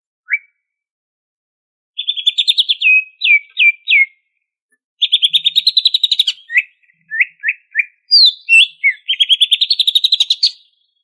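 Greater green leafbird (cucak ijo) singing: bursts of very rapid chattering trills between short runs of slurred whistled notes, with pauses of about a second between phrases.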